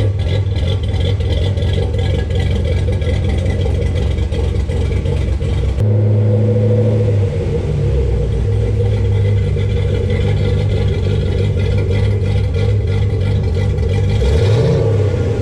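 Corvette V8 fitted with a BTR Stage 2 camshaft, running with the choppy, uneven lope of a big cam. The sound changes abruptly about six seconds in, and the engine is blipped briefly near the end.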